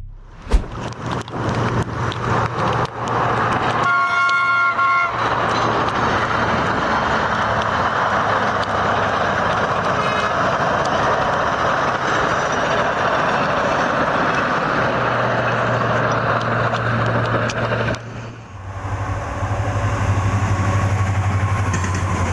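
Train horn sounding one chord for about a second, over the loud steady rushing and rumbling of a passing train. The sound breaks off suddenly near the end and gives way to a lower, humming rumble.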